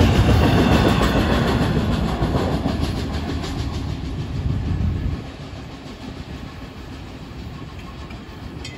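Freight train's double-stack intermodal well cars rolling past, a heavy rumble that fades as the last cars pull away. It drops off sharply about five seconds in, leaving a faint receding rumble.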